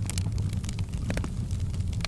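Wood fire crackling: many irregular sharp pops and snaps over a steady low rumble of flames.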